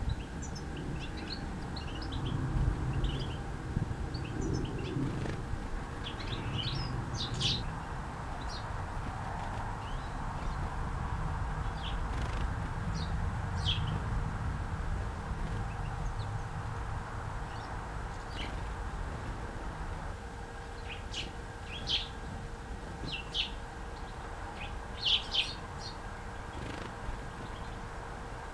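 Small garden songbirds giving short, high chirps and calls every second or two, loudest near the end, over a steady low background rumble.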